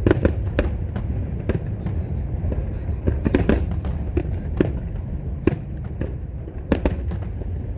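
Fireworks display: aerial shells bursting in an irregular string of sharp bangs over a continuous low rumble, with clusters of reports near the start, about three and a half seconds in, and near the end.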